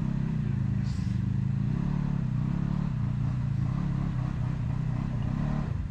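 Off-road vehicle engine running at low revs, with small rises and falls in pitch.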